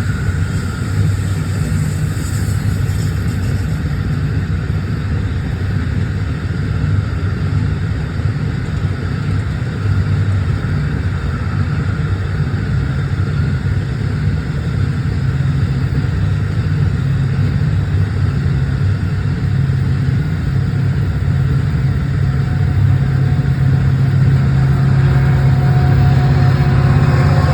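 A long train running, with a steady low rumble that grows a little louder towards the end. Several higher, steady tones join it near the end.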